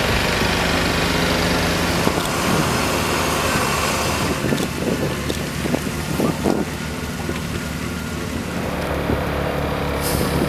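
Heavy-haul truck diesel engines running steadily, with a continuous rushing noise over them.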